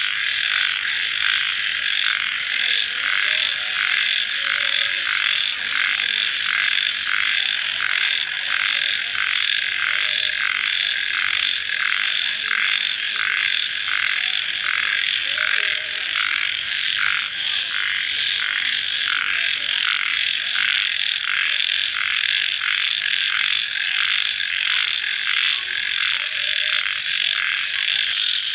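Dense night chorus of calling insects and frogs after rain: a steady, high-pitched pulsing trill that keeps a regular rhythm throughout.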